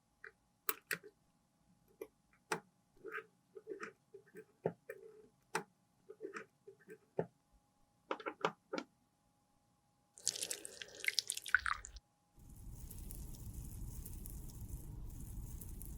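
A string of small, separate clicks and taps from handling lipstick tubes and tools. Near the end a steady rushing noise starts and keeps going.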